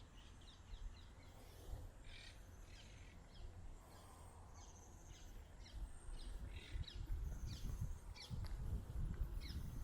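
Small birds chirping, many short quick notes that keep repeating, over a low rumble that grows louder in the second half.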